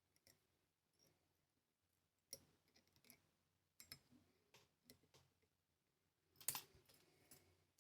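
Faint, scattered clicks and taps of small fly-tying tools being handled at the vise, with the loudest click cluster about six and a half seconds in.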